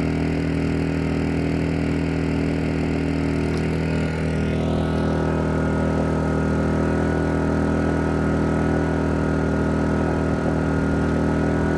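Wen 1250 inverter generator running steadily, a constant hum made of several even tones. About four to five seconds in its higher tones shift slightly.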